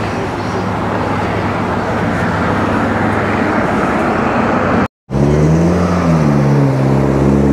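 Car engines running loudly: a rough, steady rumble, then, after a brief dropout about five seconds in, an engine whose pitch rises and falls slowly as it is revved.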